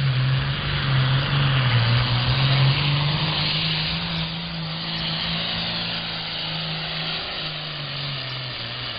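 John Deere 6030 tractor's turbocharged six-cylinder diesel running hard under full load as it drags a pulling sled. The engine note sags in pitch and recovers several times over a loud rushing exhaust, strongest in the first few seconds and then fading.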